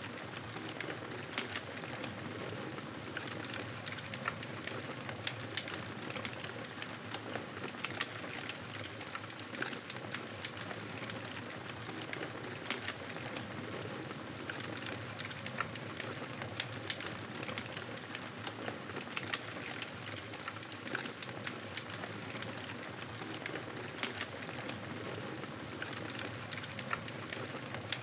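Campfire crackling: a steady hiss of burning wood with frequent irregular pops and snaps.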